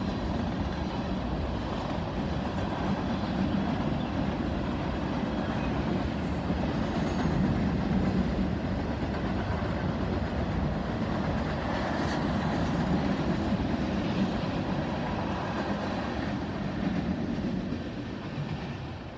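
Freight train cars rolling past steadily across a bridge, the sound dropping away near the end as the last cars go by.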